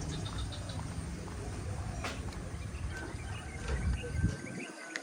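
Outdoor ambience of a tropical ridge path: birds chirping in short calls with a row of quick ticks near the start, over a low rumble that cuts off suddenly about four seconds in.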